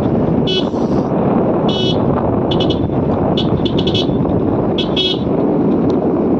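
A vehicle horn beeping in short toots, some single and some in quick runs of three or four, over the steady rush of wind and engine noise while riding a motorcycle.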